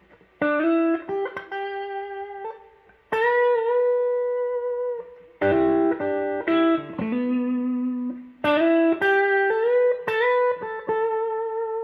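Electric guitar with McLguitars V2 clone pickups played through an amp, its volume knob rolled back to about 5: four short phrases of held single notes and double-stops, some with vibrato.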